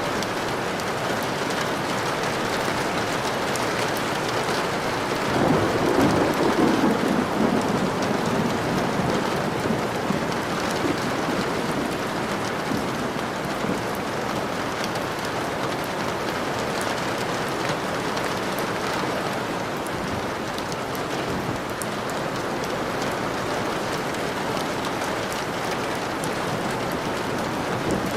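Steady heavy rain pattering on surfaces. A roll of thunder rumbles up about five seconds in, swells for a few seconds and fades back under the rain.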